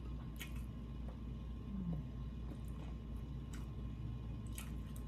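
Close-miked chewing with the mouth closed: a few sharp wet mouth clicks over a steady low hum, with a short low hum from the eater just before two seconds in.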